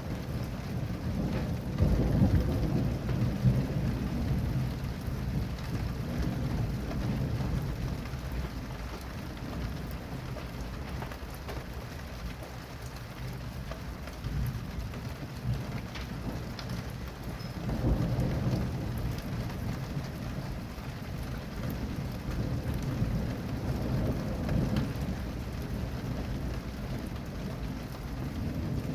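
Steady rain falling, with thunder rumbling low underneath. The rumble swells about two seconds in and again about two-thirds of the way through.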